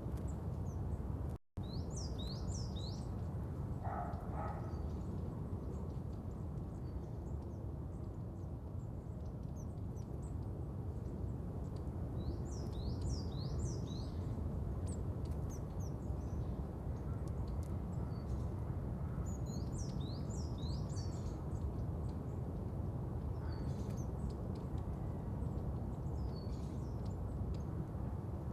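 Small birds chirping in short clusters of quick, high notes every several seconds over a steady low background rumble. The sound cuts out completely for a moment about a second and a half in.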